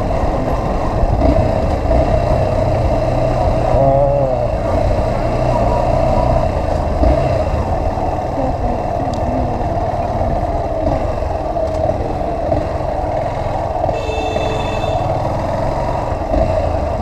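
Motorcycle running at a steady cruise, with wind rushing over the microphone. About 14 seconds in, a short high-pitched tone sounds for about a second.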